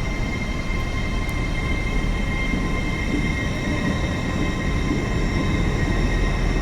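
A train running at a station: a steady low rumble with several high, steady whining tones over it.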